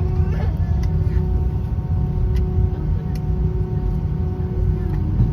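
Airbus A320 cabin noise while taxiing after landing: a steady low rumble from the engines at idle, with a constant hum over it. Faint passenger voices come and go.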